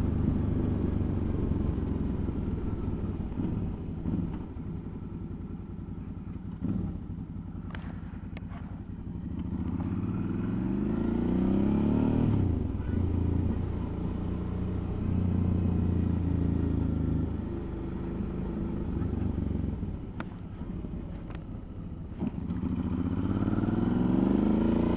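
Suzuki V-Strom motorcycle engine running on the move, its pitch rising as it accelerates about ten seconds in, dropping back, then rising again near the end. A few short clicks sound around eight and twenty seconds in.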